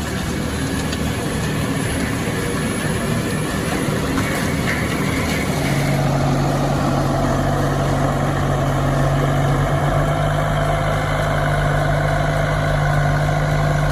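Tractor-mounted forestry mulcher running: a steady heavy engine, with a strong low hum that sets in about six seconds in and holds.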